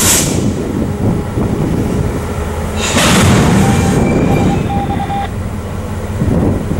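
Train running close by, a heavy low rumble, with two loud hissing bursts: one at the start and one about three seconds in.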